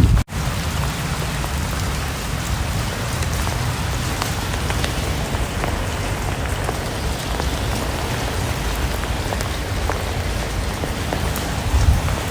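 Steady rain falling, with scattered sharp ticks of single drops through it. It starts abruptly after a split-second gap.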